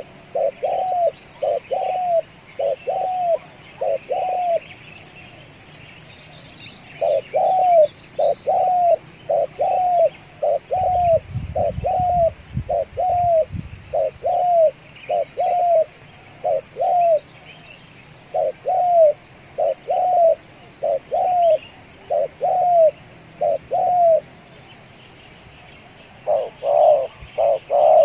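Spotted dove cooing: short, arched coos repeated at about two a second, in runs broken by brief pauses. A low rumble comes in briefly about halfway through.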